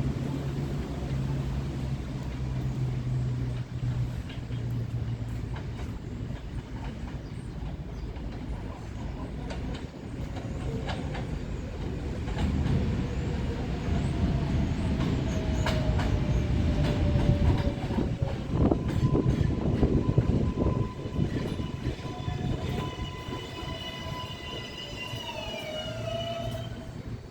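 R142-series New York subway train on the rails: the rumble of wheels and cars builds to its loudest about two-thirds of the way through. Then a stack of high electric motor whine tones comes in and falls in pitch near the end.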